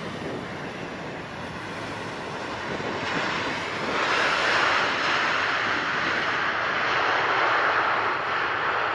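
Boeing 777's twin jet engines during landing: a steady rush of engine noise that grows louder about three to four seconds in and stays loud.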